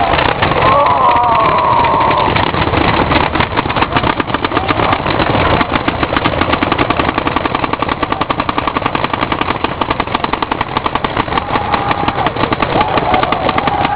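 Many paintball markers firing rapidly at once, a continuous fast rattle of shots, with faint shouting near the start and end.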